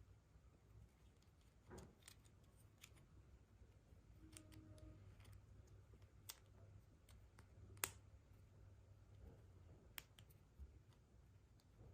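Quiet handling of plastic toy-egg capsules and small toys: sparse small clicks and taps over a low hum, with the sharpest click about eight seconds in and another about ten seconds in.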